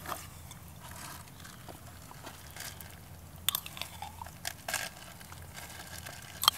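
A spoon scooping and stirring spice paste into noodles in a camping bowl: scattered light scrapes and small clinks, a few louder ones near the middle and end.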